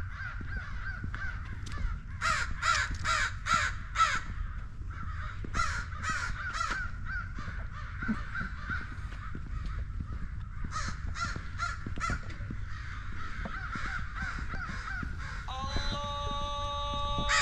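Crows cawing repeatedly in runs of several harsh caws, the loudest run about two seconds in. Near the end a steady tone of several pitches comes in.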